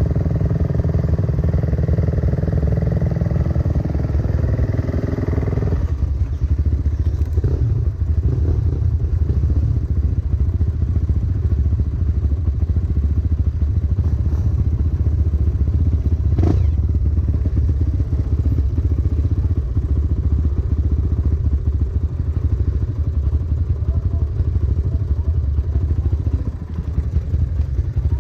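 Dirt bike engine running while riding a trail, with a higher, stronger engine note for the first six seconds or so that then eases off. A single knock about sixteen seconds in.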